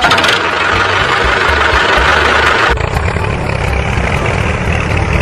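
Steady engine-like running sound with a low rumble; about halfway through the tone changes abruptly, as if cut to a different take.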